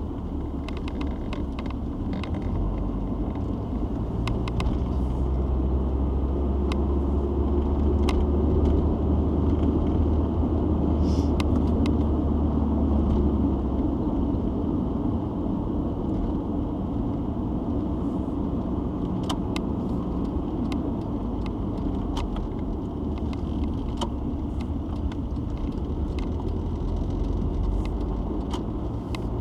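Citroen XM on the move, heard from inside the cabin: a steady low engine and road noise that grows louder for several seconds in the first half, then eases. Light clicks are scattered throughout.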